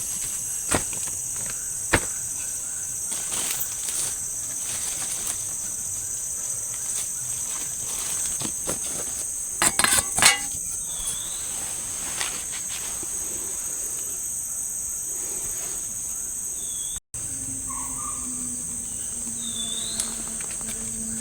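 Steady, high-pitched chorus of night insects such as crickets and cicadas in tropical forest. Scattered sharp clicks and snaps cut through it, with a louder cluster about ten seconds in, and the sound cuts out briefly after about seventeen seconds.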